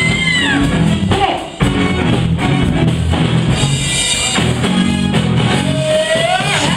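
Live band playing an up-tempo funk groove with drums and guitar. A singer's voice slides through a held note at the start and again near the end.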